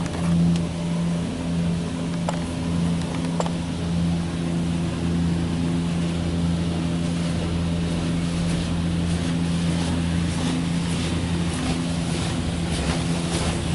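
Rinse sprayers of an automatic car wash spraying water over a car, heard from inside the cabin as a steady hiss over a constant low hum. Sharp spatters of water on the body come more and more often in the second half.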